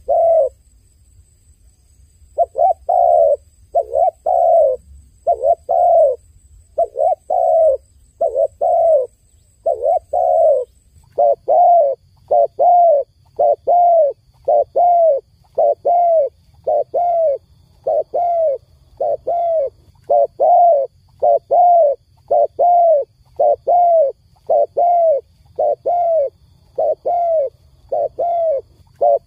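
Dove cooing over and over: short, arched coos in a steady run of about one and a half a second, after a pause of about two seconds near the start.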